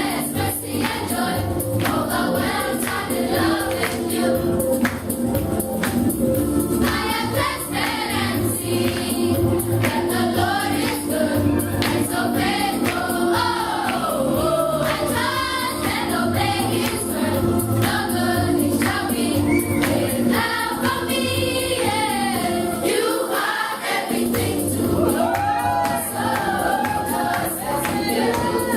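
Gospel choir singing with instrumental accompaniment and percussion, held low notes under the voices and a steady beat.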